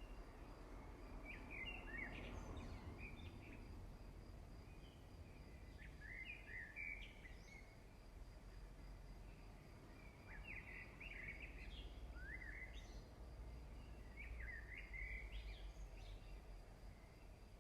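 Faint bird song: short chirping phrases repeated every couple of seconds, over a low steady hum.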